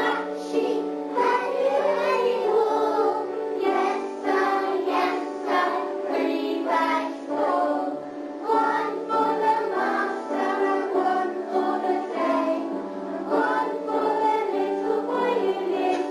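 A group of children singing a song together over sustained accompaniment notes.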